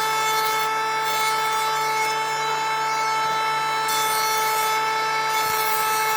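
An electric power tool running steadily with a constant whine as it works wood.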